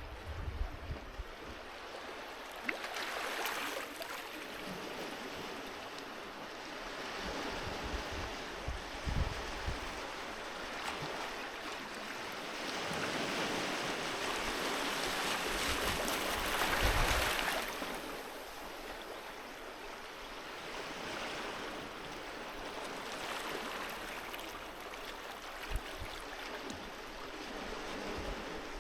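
Sea waves breaking and washing up a beach, the surf swelling and ebbing in slow surges, the biggest about halfway through, with low rumbles and thumps of wind on the microphone.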